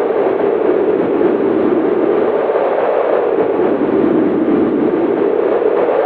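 Cold winter wind blowing hard and steadily, a howling rush whose pitch slowly sinks and then rises again near the end.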